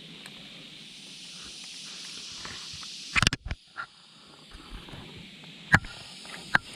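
Several sharp clicks and knocks over a steady high hiss: a quick cluster about three seconds in, then two single clicks near the end.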